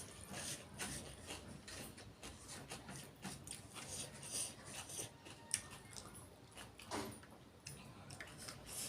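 A person chewing pork close to the microphone: irregular small wet clicks and smacks of the mouth, with a slightly louder one about seven seconds in.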